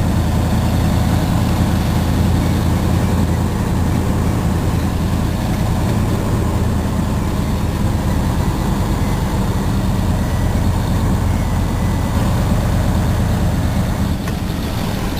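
Heavy truck diesel engine of a Mercedes-Benz cement tanker's prime mover, running steadily at a low, even speed.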